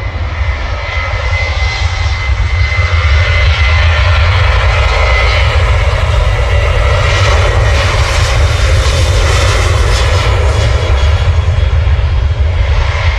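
Jet airliner's engines at takeoff power, a loud roar with a deep rumble that swells over the first few seconds, holds, and eases near the end. A steady high whine sounds over it in the first few seconds.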